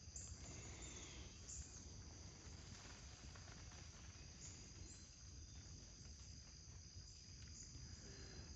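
Faint, steady, high-pitched insect chorus, like crickets, with a few brief faint chirps over near-silent backyard ambience.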